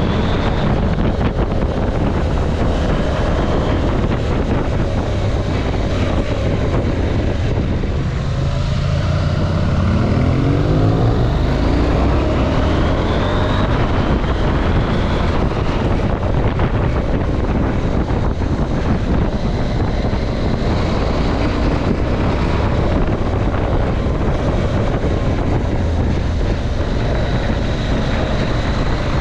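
KTM 790 Adventure parallel-twin engine running under way, mixed with wind noise on the camera microphone. The engine note rises through the revs a few times around the middle as the bike accelerates.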